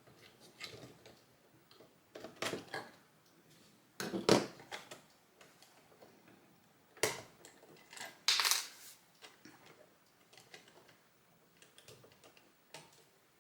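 Plastic Lego pieces being handled and pressed together, scattered sharp clicks and short rattles with quiet gaps between them.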